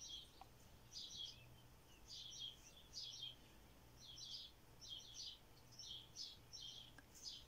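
A bird chirping faintly: short, high chirps in little clusters about once a second, over a faint low hum.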